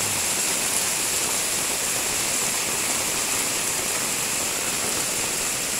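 Heavy downpour: a steady hiss of rain on roofs and concrete, with water pouring off the roof edges.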